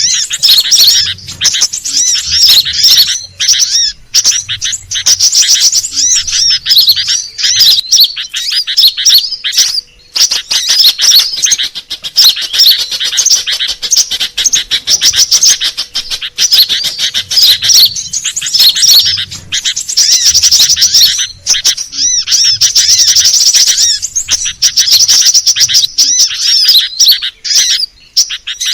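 Sunbird lure calls, kolibri daun and crimson sunbird (sepah raja), played loud: fast, high twittering chirps in long, dense runs, with brief breaks about ten and eighteen seconds in.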